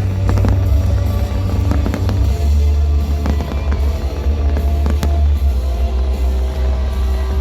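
Aerial fireworks bursting with sharp bangs, the sharpest about five seconds in, over loud music with heavy bass.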